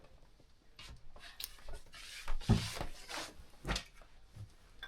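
Clothes being handled: fabric rustling in a series of short, irregular swishes, some with a soft thump as garments are shaken out or set down.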